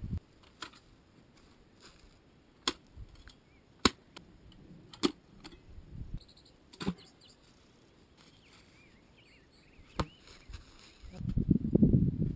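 A handful of sharp, separate knocks and clicks, about six in all, spaced irregularly, from wood being handled. About 11 seconds in, a loud low rumbling rustle starts up.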